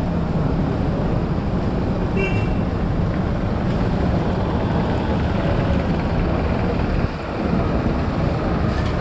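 Steady low vehicle rumble, with a brief pair of high beeps about two seconds in.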